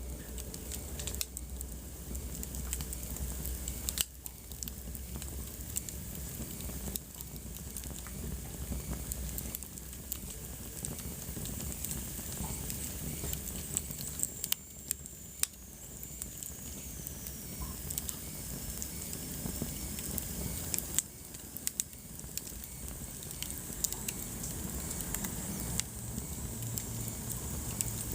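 Wood fire crackling in a fireplace: a steady hiss with frequent sharp snaps and pops, a few louder than the rest. About halfway through, a faint high whistle slides down in pitch.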